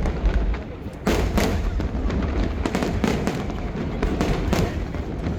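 Aerial fireworks bursting in quick succession: a string of sharp bangs, several a second at times, over a continuous deep rumble.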